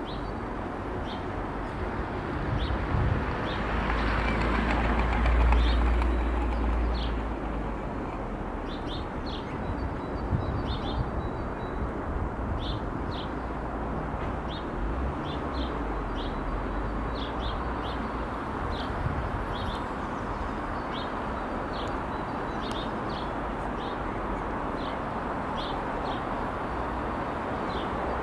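Short, high bird call notes, often two or three close together, scattered irregularly throughout. Under them runs a steady low rumble that swells about four to seven seconds in.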